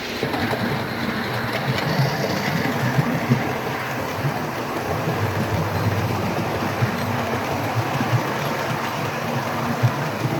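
OO gauge model train running on the track: a steady rumble of wheels and motor, with scattered small clicks as the wheels pass over the rails.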